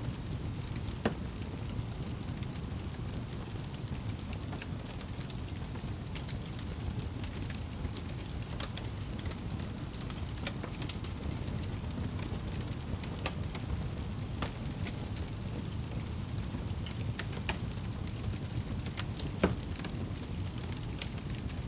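Wood fire crackling: a steady low rumble with scattered sharp pops and snaps, the loudest about a second in and near the end.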